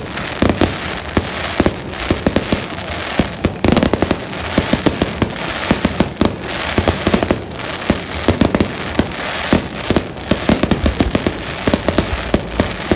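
Fireworks exploding in a rapid, continuous barrage, many sharp bangs and crackles overlapping without a break.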